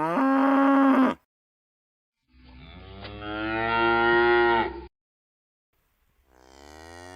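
Cow mooing: three long moos, each rising in pitch and then held, with short silences between them. The first ends about a second in and the last begins near the end.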